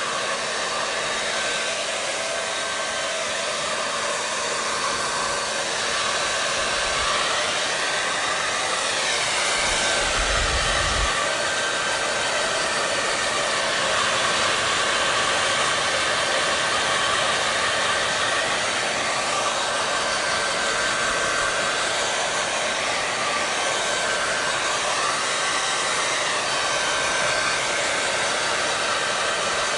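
Electric hair dryer running steadily, a constant airy whoosh with a faint steady whine and slow shifts in tone.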